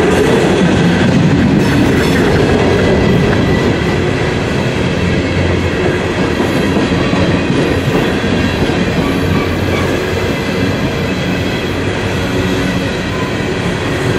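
Empty open-top coal cars of a freight train rolling past at close range: the steady, loud noise of steel wheels running on the rails.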